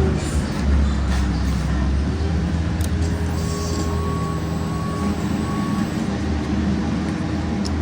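Inline-four 600 cc supersport motorcycle engine running steadily at low revs, with no revving. A high beeping tone sounds in short pieces through the middle.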